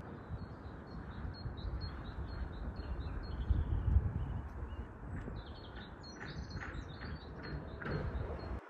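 Small birds chirping, with short repeated high notes at first and a busier run of varied calls later, over a steady low rumble of wind on the microphone.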